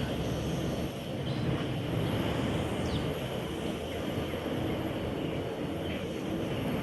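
Jet airliner engines making a steady, even rumble across the airfield.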